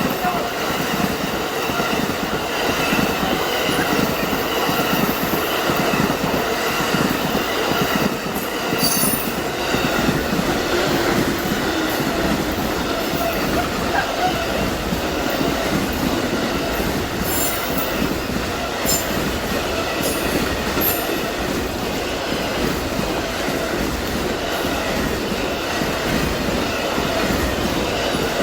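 Amtrak Auto Train's passenger and auto-rack cars rolling steadily past at speed. The wheels on the rails make a continuous loud rumble with high ringing tones, and a few sharp clicks come in the middle stretch.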